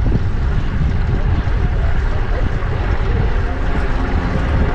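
Steady low rumble of wind buffeting a GoPro's microphone during a fixed-gear bike ride, with the noise of surrounding traffic mixed in.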